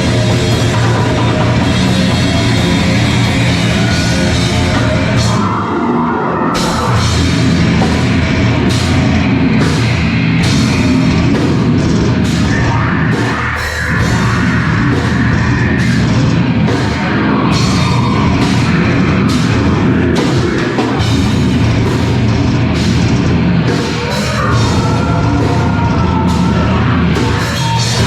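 A live heavy rock band playing loud: distorted guitars, bass and drums with frequent cymbal crashes, the music running without a break.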